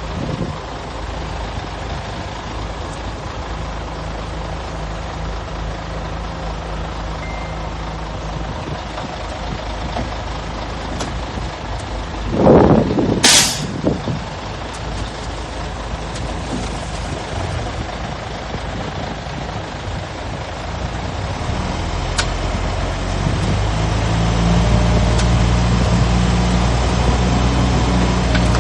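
Heavy diesel engines of earthmoving machines running steadily, with a short loud air-brake hiss from a dump truck about halfway through. Near the end an engine grows louder as it works harder.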